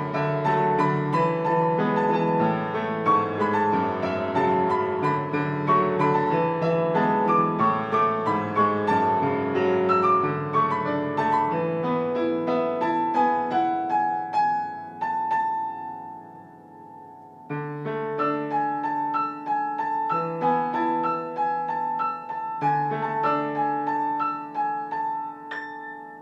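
Solo piano playing a simple arrangement of a pop song: a run of melody notes over chords that slows and fades to a held note about fifteen seconds in, then a few more chords that ring out and die away as the piece closes.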